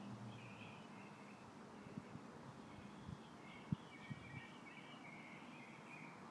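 Faint outdoor ambience: distant birds chirping over a soft wind hiss, with a few brief low thumps in the middle, the loudest a little under four seconds in.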